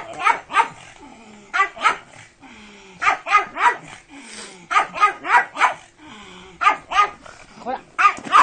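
Pug barking excitedly in quick bursts of two or three short, sharp barks, about one burst every second or so, with quieter whining between bursts.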